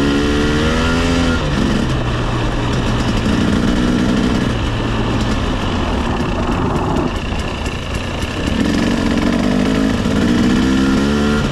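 300cc two-stroke dirt bike engine being ridden, its revs rising and falling with the throttle. It eases off about seven to eight seconds in, then revs up again.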